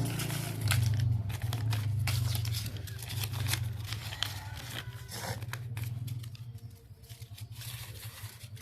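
Paper banknotes being handled and counted, with short crisp rustles, crinkles and flicks, over a low steady hum.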